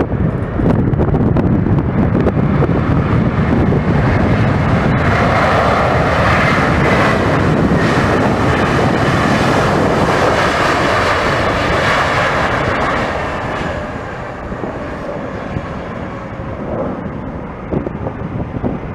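Jet airliner flying past, its engine noise with a whine that peaks in the middle and eases off near the end, over wind buffeting the microphone.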